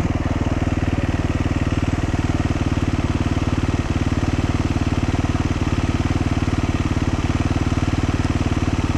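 Dual-sport motorcycle engine running steadily at low revs, an even, rapid firing beat that holds the same pitch throughout.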